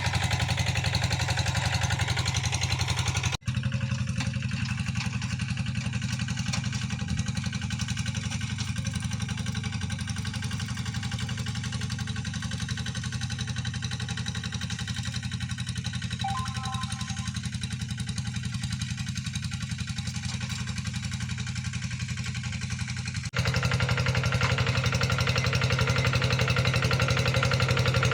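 Tractor engine running steadily under load while ploughing a wet rice field. The sound changes abruptly about three seconds in and again near the end, where the recording is cut.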